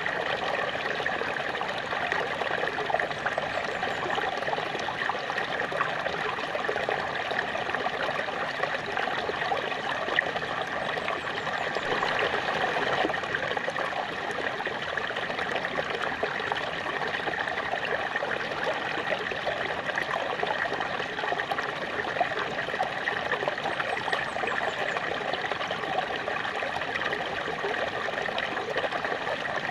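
Small waterfall: water falling and splashing steadily, a continuous trickling rush.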